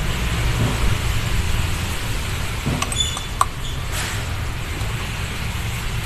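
A steady low rumble with an even hiss throughout, like wind on the microphone. About three seconds in come a few light metallic clinks, as metal fuel-pump parts are handled.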